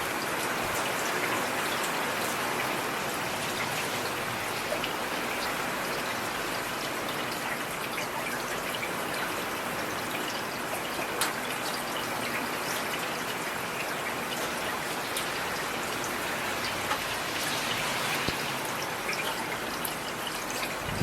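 Steady rain falling on a street: an even hiss with scattered sharp drop impacts.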